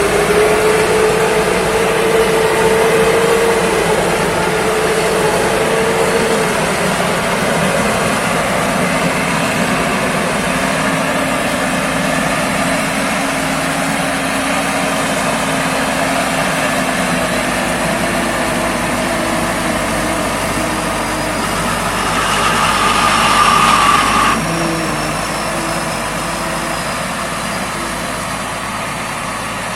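Diesel engine running steadily, its pitch drifting slowly up and down. About 22 seconds in, a louder high whine joins and cuts off suddenly a couple of seconds later.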